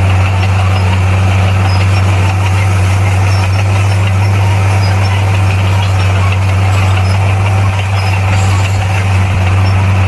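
Bulldozer's diesel engine running steadily at an even, unchanging pitch.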